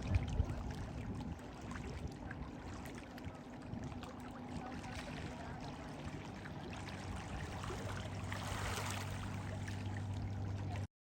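Outdoor ambience with water trickling, a steady haze with small scattered clicks; it cuts off suddenly near the end.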